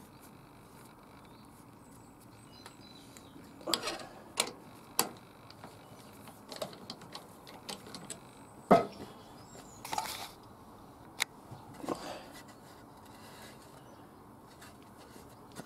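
Scattered knocks and clicks of things being picked up and put down on a workbench, the loudest a sharp knock about nine seconds in.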